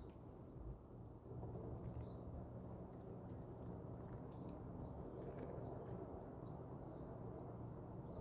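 Small birds chirping: short, high, arching chirps scattered every half second or so, over a faint steady low background noise.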